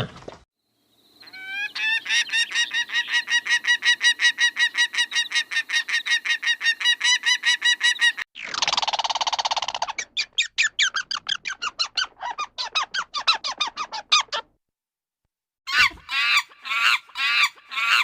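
Waterfowl honking: long runs of rapid, evenly repeated calls at about five a second, then after a short pause about five separate honks near the end.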